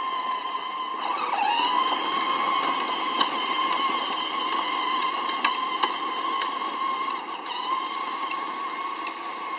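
Peg Perego John Deere Ground Force 12-volt battery-powered ride-on toy tractor running: a steady high electric motor and gearbox whine that dips and climbs back about a second in, with scattered sharp clicks.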